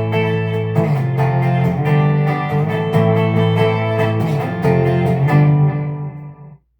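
Electric guitar (a PRS SE Hollowbody II with humbuckers) strummed through a Peavey Vypyr X2 modelling amp: a run of chords with repeated strums, ringing out and then stopping near the end.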